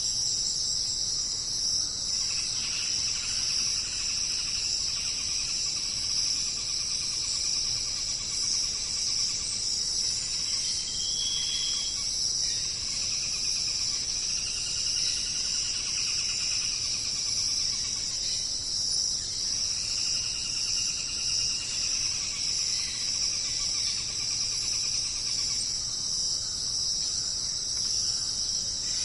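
Dense, steady, high-pitched chorus of rainforest insects, unbroken throughout. Lower, softer calls rise and fall beneath it every few seconds.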